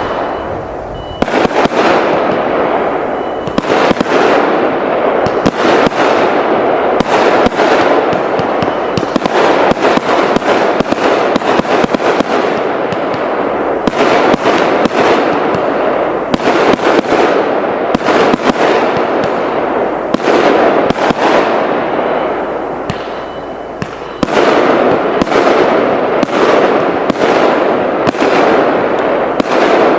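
Consumer fireworks cake (TKB997 'Money to the Wind' battery) firing a rapid, continuous barrage of bangs over steady crackling, easing briefly about a second in and again about three-quarters of the way through before picking up again.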